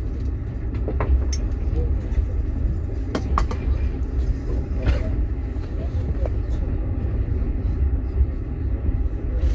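Steady low rumble of a moving passenger train heard inside a platskart sleeper carriage, with a few sharp clicks and knocks scattered through it.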